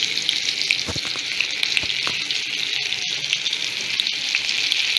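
Masala-coated small brinjals shallow-frying in oil in a kadai: a steady crackling sizzle full of small pops. Two soft low knocks come about one and two seconds in as the pieces are turned over.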